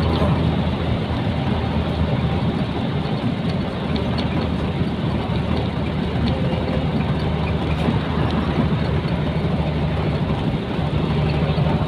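Nissan Diesel container truck driving along, its diesel engine giving a steady low drone over continuous road and tyre noise.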